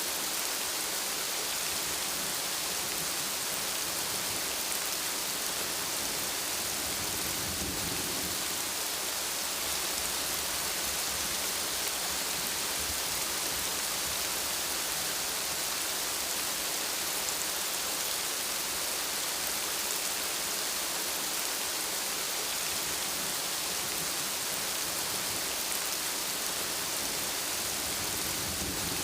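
Steady rainfall, an even hiss of drops on surfaces. A low rumble of distant thunder swells partway through.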